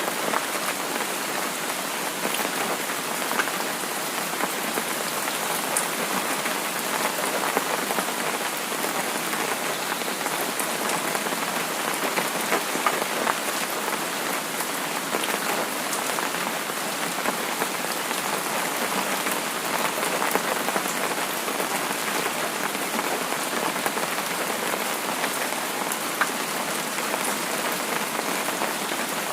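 Steady rain falling on a surface, a dense even hiss speckled with the small ticks of individual drops.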